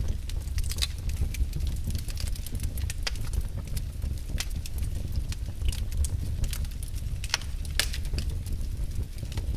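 Wood fire burning in a fireplace: a steady low rumble with irregular sharp pops and crackles.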